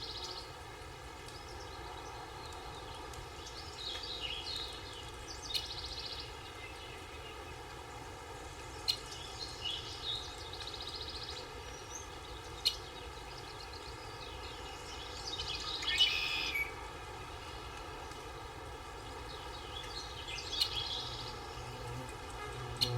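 Forest ambience: a songbird repeating a short song phrase about every five or six seconds over a steady insect buzz, with a few sharp ticks between phrases.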